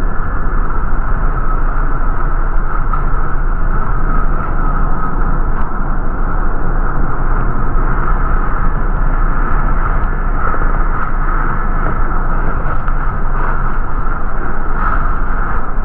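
Steady running noise of an MTA city bus heard from inside: a continuous low rumble of engine and road with a constant higher hum over it.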